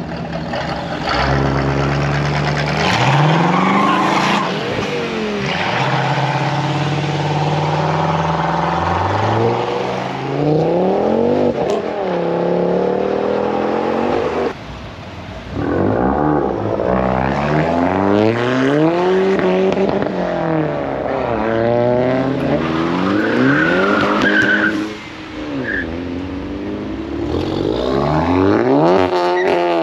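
Car engines revved hard over and over, the pitch climbing and falling every couple of seconds, with short breaks about halfway through and again near the end.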